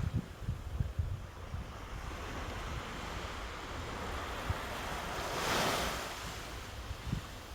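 Rushing water, with wind buffeting the microphone in low gusts. About five and a half seconds in, the water swells louder for a moment and then falls back.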